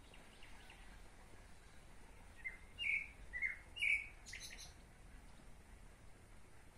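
A songbird singing: four clear notes alternating between a lower and a higher pitch, about two a second, around the middle, followed by a few short sharp chirps, with fainter chirping early on.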